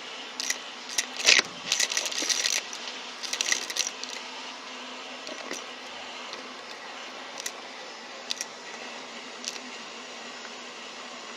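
Vacuum cleaner running steadily, with a burst of crackling and clicking from debris being sucked up in the first few seconds and a few single clicks later.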